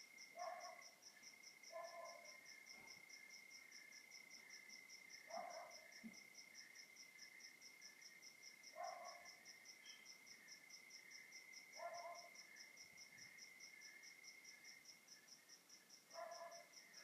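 Night insect chorus of crickets: one steady high trill and a higher, fast, evenly pulsing chirp. Over it another animal gives six short, lower calls a few seconds apart.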